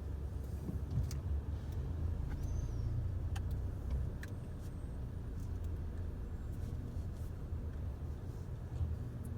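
Steady low rumble of a motor vehicle's engine, with a few faint clicks and a brief high squeak about two and a half seconds in.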